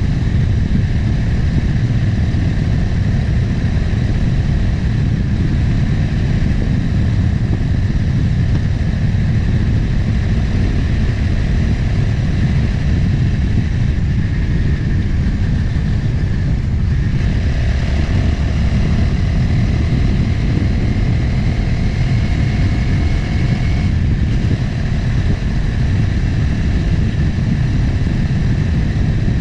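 Motorcycle riding under way: engine running steadily, mixed with heavy wind rush on the onboard microphone. A higher whine joins a little past halfway, rises slightly, and drops away several seconds later.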